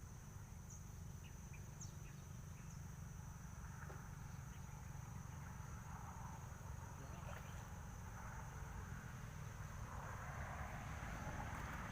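Insects buzzing in one steady, high-pitched drone over a low rumble, with a faint hiss building near the end.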